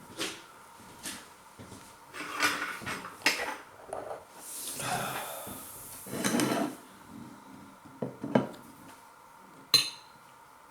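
Cutlery knocking and scraping against a dish: a few separate clinks and scrapes, a longer rustling scrape in the middle, and a sharp click near the end.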